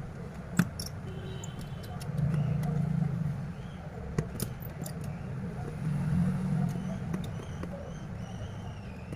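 Low hum of road traffic that swells twice, with a few sharp small clicks from tools and screws being worked on a smartphone, two of them louder, about half a second in and about four seconds in.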